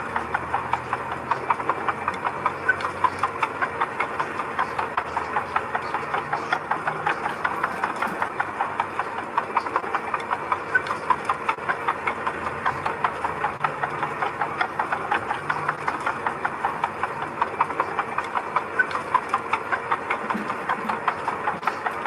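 Diesel engine of a mini bulldozer or dump truck running steadily, with a rapid, even knocking clatter of about three beats a second.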